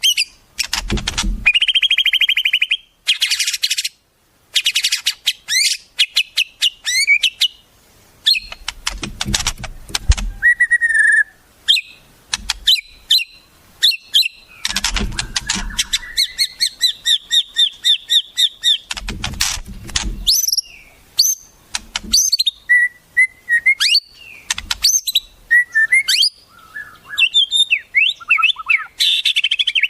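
Wild songbirds singing: a busy run of varied chirps, whistled slurs, buzzy rattles and fast trills, one phrase after another, with a few low thuds underneath.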